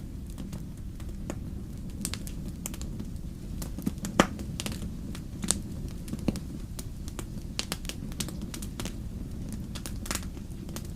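Wood fire in a fireplace crackling, with irregular sharp pops over a steady low rumble. The loudest pop comes a little after four seconds in.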